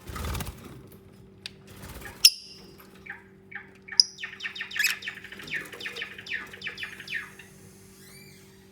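Lovebirds chirping: two sharp, shrill chirps, then a quick run of short chirps lasting about three seconds. A brief rustle comes at the start, and a steady low hum runs underneath.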